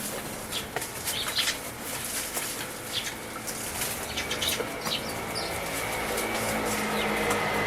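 Tree sparrows bathing in a bird bath: rapid bursts of wing fluttering and splashing water, one after another. Over the second half a passing vehicle's engine grows steadily louder underneath.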